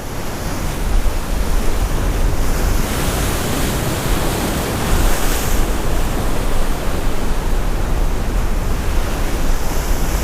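Heavy surf from a tropical-storm swell breaking against a jetty, a steady loud wash of waves, with wind rumbling on the microphone.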